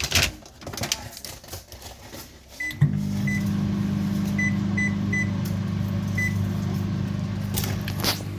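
Microwave oven: a knock and some handling noise, then short keypad beeps, and the oven starts up about three seconds in with a steady low hum. A few more short beeps sound over the hum.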